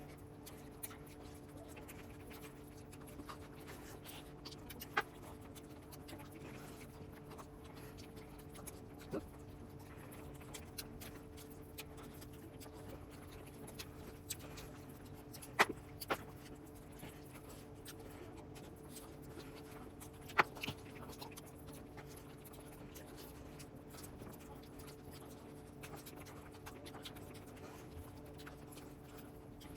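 Quiet eating sounds: scattered sharp clicks and taps of hands and food against containers, a few of them louder, over a steady low hum.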